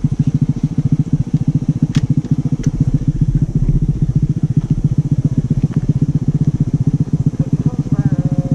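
Small motorcycle engine idling steadily, an even putter of about ten beats a second. Two sharp clicks come about two seconds in.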